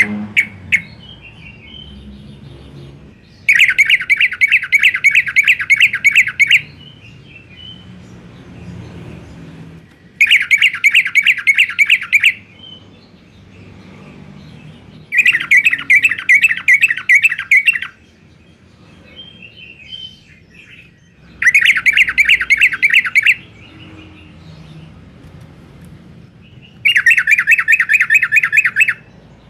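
Sooty-headed bulbul (trucukan) singing in the 'garuda' style. Five loud bouts of rapid repeated notes, each lasting two to three seconds, with soft chirps between the bouts.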